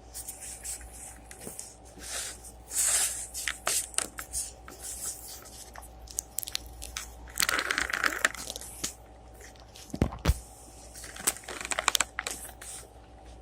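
Salad greens and plastic salad-kit packaging crinkling, crunching and rustling in irregular bursts as a kale salad is tossed and mixed, with a few sharp knocks about ten seconds in.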